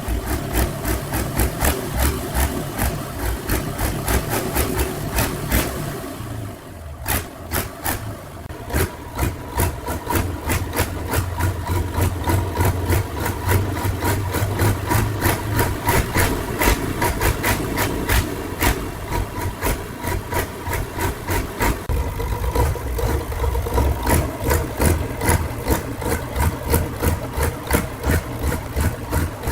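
Restored DAIWU machine's engine running at a steady idle, with a regular knock about three times a second. The level dips briefly about six seconds in, then the engine runs on steadily.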